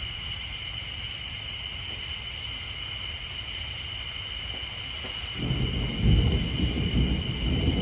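A steady night chorus of tree frogs and insects, its highest buzz swelling and fading every couple of seconds. About five seconds in, a low rumble of thunder rolls in and grows louder.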